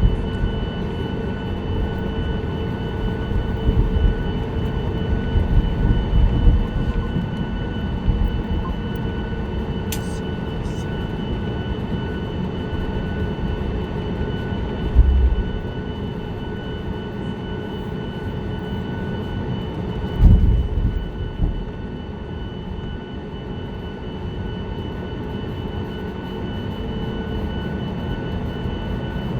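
Cabin noise inside a Boeing 737-9 MAX on the ground: a steady rumble with a thin steady whine. A few short low bumps come through, about four to seven seconds in, at about fifteen seconds and at about twenty seconds.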